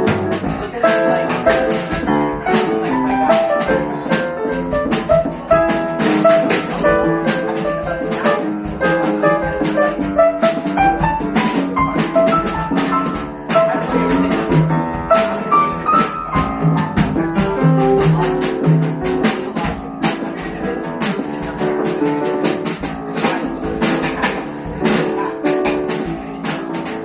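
Live jazz band playing a standard, a melody of short notes over a steady run of quick percussion strokes.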